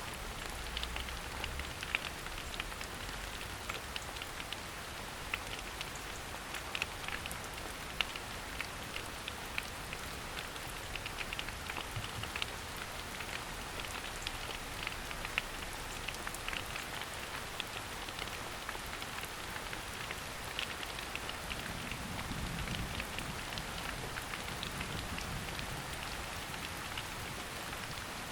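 Steady rain falling on forest foliage, a continuous hiss broken by many individual drops ticking.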